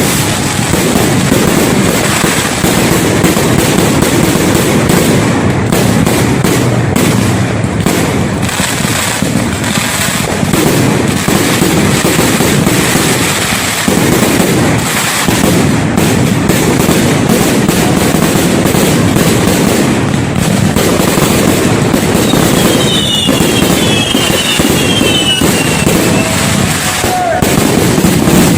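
New Year's fireworks display: a dense, continuous barrage of bangs and crackling from aerial fireworks, with crowd voices underneath. Past the middle come a few short whistles falling in pitch.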